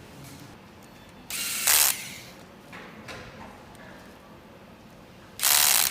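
Electric screwdriver on a projector assembly line, run twice for about half a second each, once early and again near the end, driving screws.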